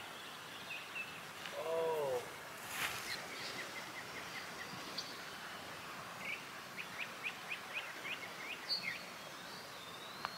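Wild birds calling over a steady outdoor hiss: two runs of quick, high repeated chirps, with a lower arched call about two seconds in. A single short sharp click comes about three seconds in.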